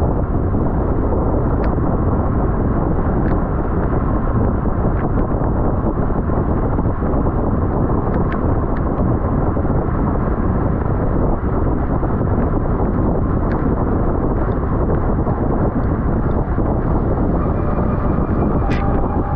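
Wind rushing over the microphone of a bicycle-mounted camera at racing speed. It is a loud, steady rush with a few faint clicks scattered through it.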